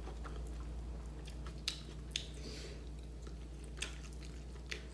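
A person chewing food close to the microphone, with a few sharp clicks and a steady low hum underneath.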